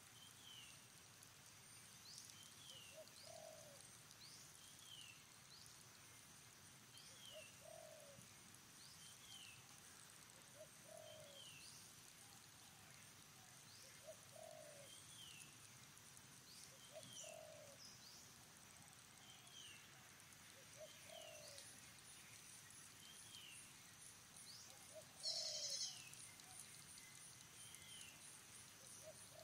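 Faint outdoor birdsong: a dove gives a short coo every few seconds while another bird repeats a short, falling high note about once a second, over a steady faint high hiss. A brief louder noise breaks in about 25 seconds in.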